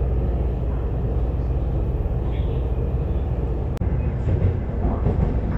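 Steady low rumble of a moving passenger train, heard from inside the carriage. It cuts out for an instant about two-thirds of the way through.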